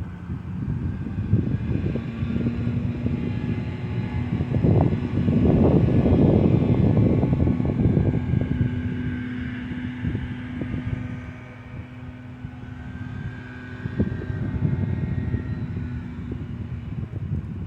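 A steady engine drone that swells for a few seconds about five seconds in, over a low rumble of wind on the microphone.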